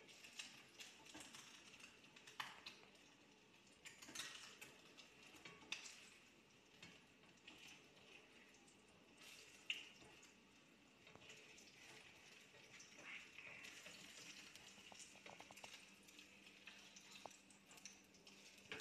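Faint, steady sizzling of eggs frying in oil in a wok, with scattered small crackles and a few clicks.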